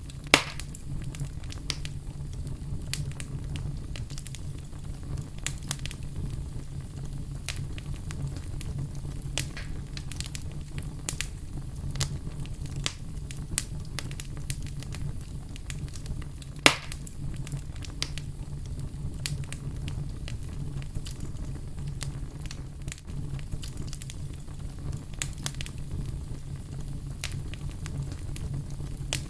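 Fire crackling: a steady low rumble of burning with many scattered small pops and snaps, and two louder sharp cracks, one about half a second in and one past the middle.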